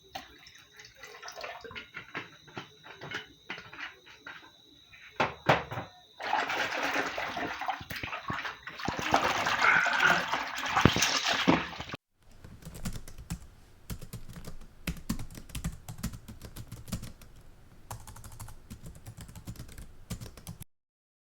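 Kitchen cleaning: scattered clicks and knocks of items being handled, then a tap running hard for about six seconds, then more knocking and clattering after an abrupt cut.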